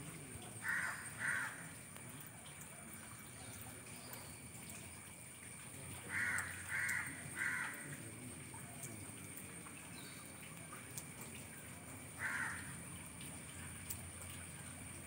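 A bird calling in short, rough calls: two close together near the start, three in a row about halfway through, and one more near the end, over faint steady background noise.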